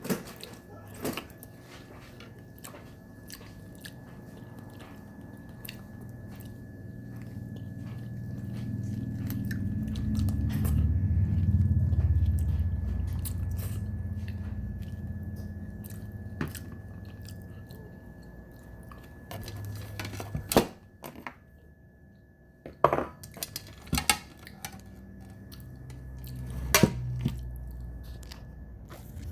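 A person chewing steamed crab close to the microphone, with scattered sharp crunches and clicks. A low rumble swells through the middle, and the loudest crunches come in the last third.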